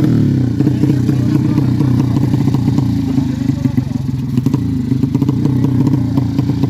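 Yamaha Jupiter-based 200cc single-cylinder four-stroke drag bike engine with a PWK Sudco 33 carburettor, running steadily at idle. Its rapid exhaust beat wavers slightly in pitch.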